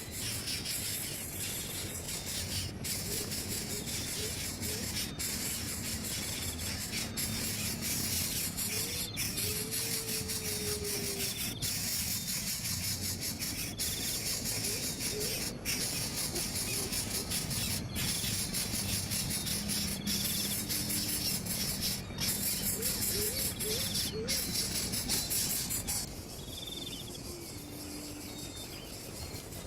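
Steady chorus of insects, crickets or cicadas, a dense high buzz that thins out about 26 seconds in, with short low calls now and then.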